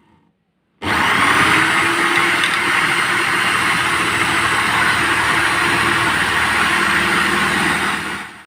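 Electric drill driving a homemade coconut and cassava grater, running at a steady speed; it starts abruptly about a second in and cuts off near the end.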